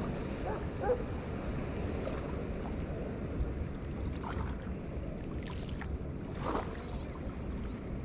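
Small river waves lapping, with a low wind rumble on the microphone and a few faint short chirps.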